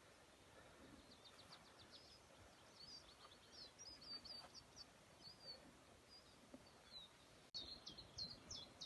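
Faint birdsong: short high chirps and trills from small songbirds over a quiet outdoor hiss. About seven and a half seconds in, the background cuts abruptly and a brisker run of repeated chirps follows.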